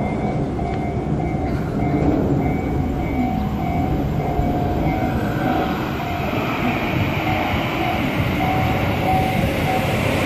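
Electric commuter train running on the rails: a steady low rumble of wheels and running gear that grows brighter and a little louder from about halfway through.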